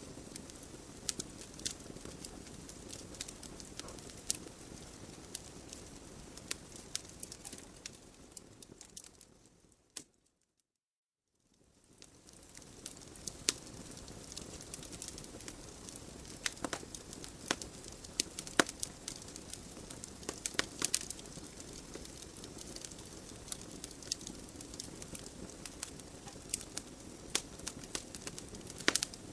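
Wood logs burning in a fireplace: a soft steady hiss of flames with sharp, irregular crackles and pops. About ten seconds in the sound fades out to silence for a couple of seconds, then fades back in.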